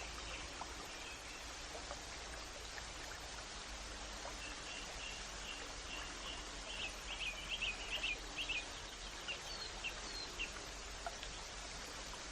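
Steady rushing background like running water, with a small bird chirping in quick runs of short high notes from about four seconds in, busiest around seven to eight seconds and thinning out near the end.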